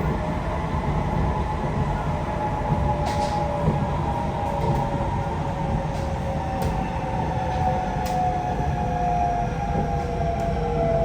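Kawasaki C151C metro train running, heard from inside the car: a steady low rumble of wheels on the track under a motor whine that slowly falls in pitch as the train slows. A few faint clicks sound over it.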